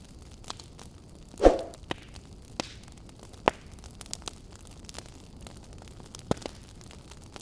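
Campfire burning with irregular sharp crackles and pops of the wood over a soft hiss; the loudest, fullest pop comes about a second and a half in.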